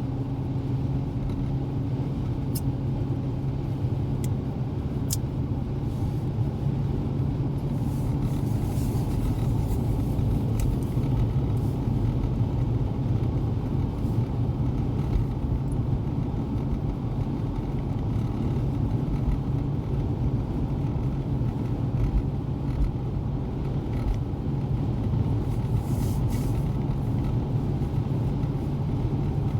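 Steady road and engine noise inside a moving car's cabin: a low hum over tyre rumble.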